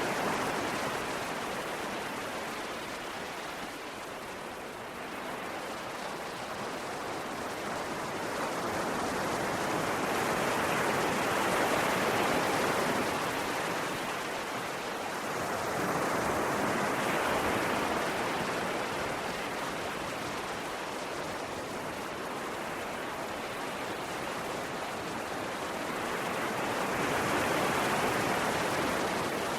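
Ocean surf washing ashore: a continuous rush of water that swells and fades slowly a few times as waves come in.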